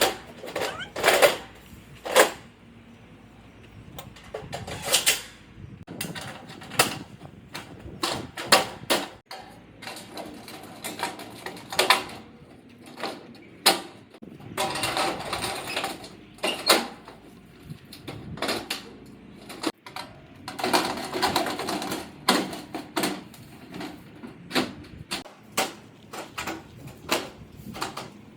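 Hurricane shutters being handled and put up: irregular knocks and clicks, with a few longer stretches of scraping or sliding.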